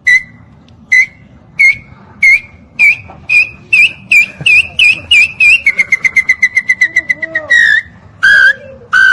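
Parrot imitating the whistled song of a nambu tinamou. A series of clear, single whistled notes rises slowly in pitch and comes closer together, then breaks into a fast run of short notes falling slightly in pitch. A few longer, lower whistles follow near the end.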